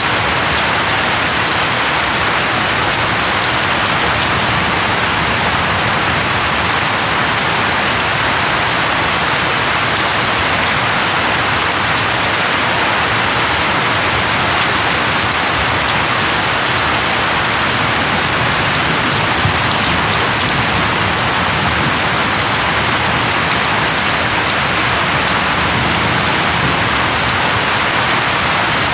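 Steady rain falling, with a dense hiss of drops hitting a surface and scattered individual drop ticks; unchanging throughout.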